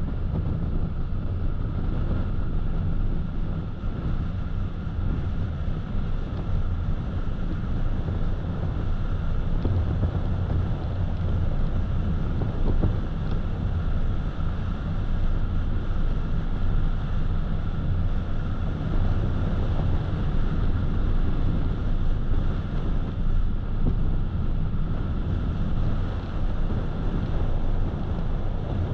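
Steady road noise of a car driving: a low rumble from the tyres and engine with some wind, heard from inside the cabin.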